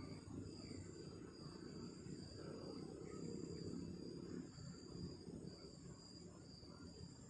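Night insects, crickets, chirring steadily in two high shrill tones, over a low rumbling noise.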